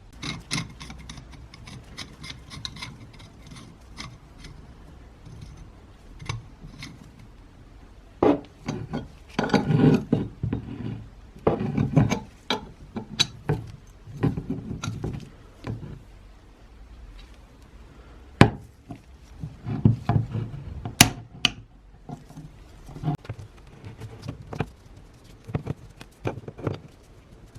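Hand work with tools: irregular scraping and rubbing strokes with scattered sharp clicks and knocks, busiest in the middle of the stretch.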